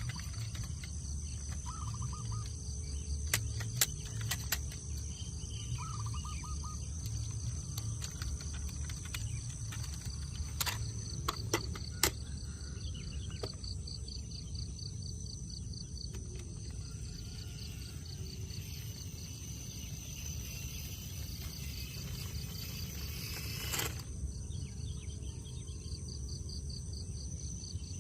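Insects chirring steadily in a high, fast pulsing buzz over a low background rumble, with a few sharp clicks here and there.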